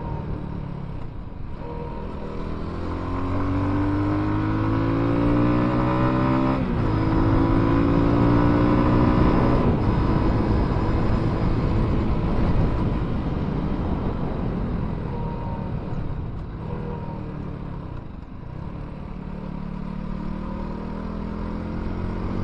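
Benelli Leoncino 250's single-cylinder engine under way, revs climbing and dropping sharply twice as it shifts up through the gears. The revs then sink slowly as it eases off and pick up again near the end.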